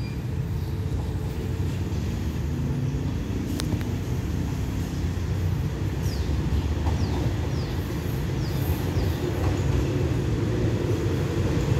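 Diesel railcar train approaching the station, its low engine rumble growing slowly louder as it nears. A few short, high falling chirps sound in the middle.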